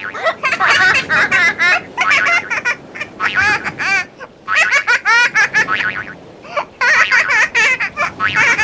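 Young child laughing in runs of giggles, with short pauses about four and six seconds in.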